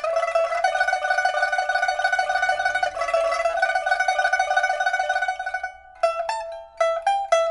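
A Dalbergia oliveri (white suanzhi) pipa playing a fast tremolo that holds a high note for about six seconds. Near the end come a few separate plucked notes. The instrument is being test-played after a repair that gave it a new soundboard and new frets.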